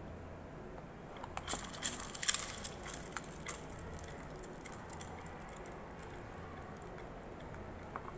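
Faint steady low hum with a quick irregular run of small clicks and rattles for about two seconds, and one more click near the end, plausibly the small DC motor and plastic parts of a running 3D-printed jhula model.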